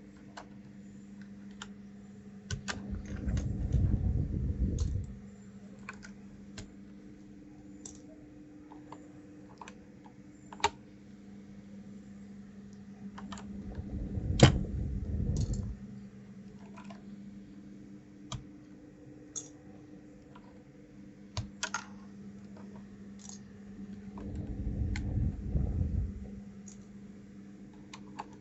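Scattered sharp plastic clicks of keycaps being worked off and pressed onto a 1st Player DK 5.0 keyboard, with three longer bouts of rubbing and handling noise, under a faint steady low hum.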